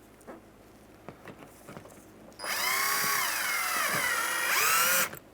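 Cordless drill/driver running a door-panel screw in for about two and a half seconds, starting about halfway through. Its whine sags in pitch as the screw loads it, then rises again near the end. A few faint clicks come before it.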